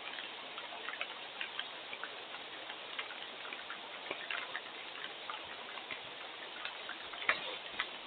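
Rain falling steadily, with individual drops ticking irregularly on a hard surface over the hiss.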